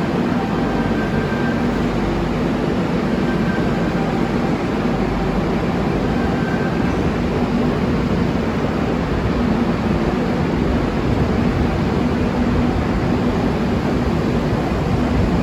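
Sydney Trains electric passenger train running, a steady rumble of wheels on rail with a faint hum over it.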